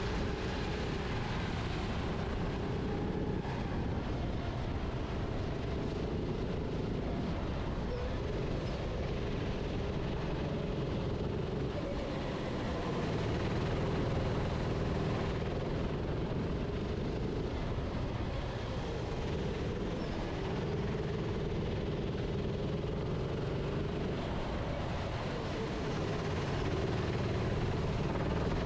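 Racing kart engine heard onboard, its note rising under throttle and dropping off several times as it brakes for corners, over a steady rushing noise.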